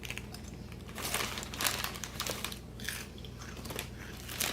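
Crinkling and crunching from a snack-size bag of Doritos tortilla chips, in several short irregular bursts.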